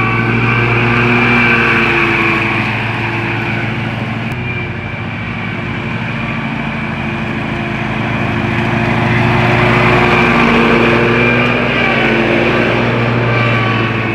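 Riding lawn mower engine running steadily while mowing, its sound swelling louder and easing off as the mower moves.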